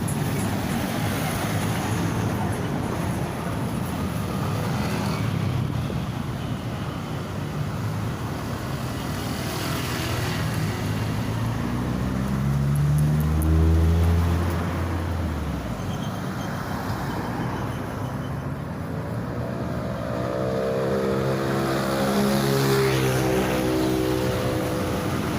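Road traffic: vehicle engines and tyre noise going by, with one loud low engine note swelling and falling away about halfway through, and another engine note rising near the end.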